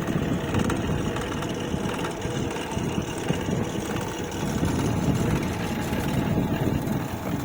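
Swaraj 855 toy tractor running with a steady, rough engine sound.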